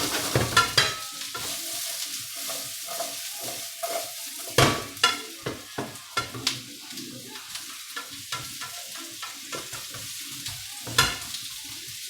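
Capsicum and onion sizzling in a hot wok while being stirred, the utensil scraping and knocking against the metal, with louder knocks about four and a half and eleven seconds in.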